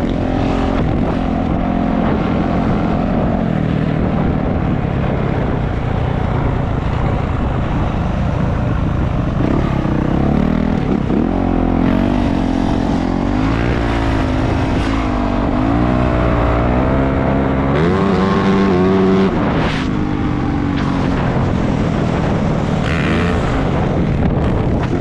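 450cc four-stroke dirt bike engine under way, revving up and down as the rider works the throttle and gears, with wind noise on the microphone.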